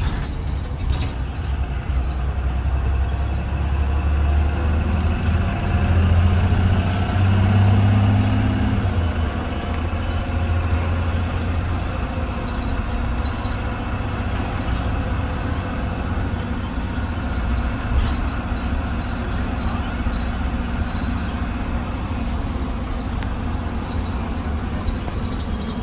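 2020 Blue Bird Vision school bus under way, heard from inside: a low engine drone with road noise. The engine pulls harder and its note climbs a few seconds in, then eases back to a steady cruise. A single sharp knock comes about eighteen seconds in.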